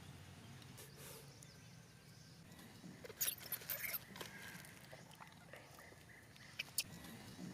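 Baby monkey giving a few short, high squeaks about three seconds in, and more near the end, over a faint low hum.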